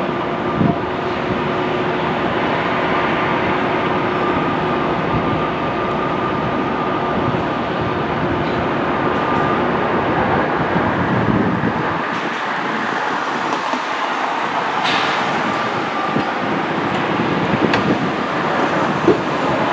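A moving train running steadily, with a steady hum that fades about halfway through and a few light clicks.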